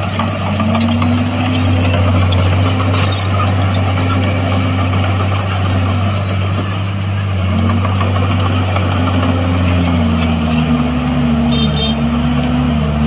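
Heavy construction machine's diesel engine running, a steady low drone under a higher engine tone that dips and picks up again a few times as the load changes, wavering more near the end.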